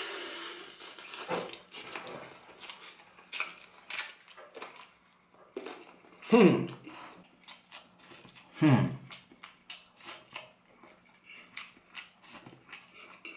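Close-up eating sounds: chewing and biting fried chicken off the bone, with many small mouth clicks and smacks. Two short falling vocal sounds break in, about six and nine seconds in.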